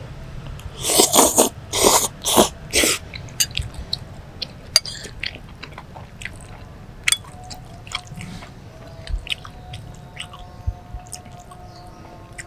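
A person eating mie godog, Javanese boiled noodles. About a second in come four short, loud rushes of air, then chewing with many small clicks and smacks.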